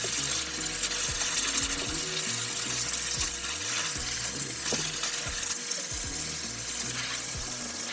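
Pet grooming dryer blowing a steady rush of air, with background music and its bass notes playing underneath.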